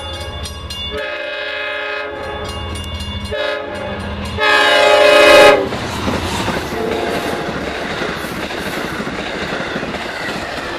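Train horn sounding the grade-crossing signal: the end of a long blast, a second long blast, a short one and a final long blast that is the loudest, ending about five and a half seconds in. The train then passes close by with a steady rumble and clatter of wheels on the rails.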